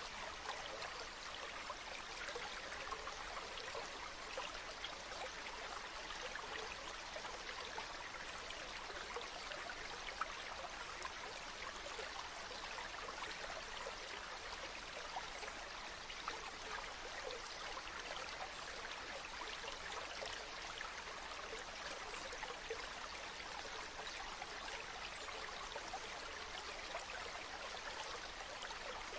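A small stream flowing, a steady trickling babble of water that keeps an even level throughout.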